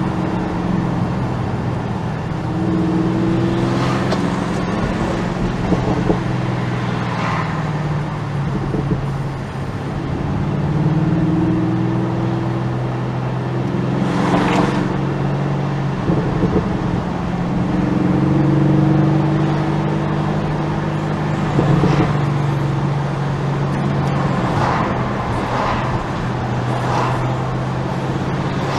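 Bentley Continental GT V8 S's 4.0-litre twin-turbo V8 with sports exhaust running under way: a steady deep drone whose pitch rises and falls a few times as the car accelerates and eases off. A handful of short, sharp exhaust pops are scattered through it.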